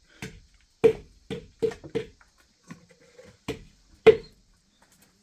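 A series of sharp knocks, about nine strikes at an uneven pace over four seconds, each with a short hollow ring.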